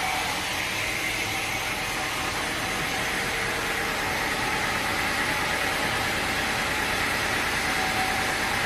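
Sawmill machinery running steadily, a constant mechanical hum and hiss with no cut being made.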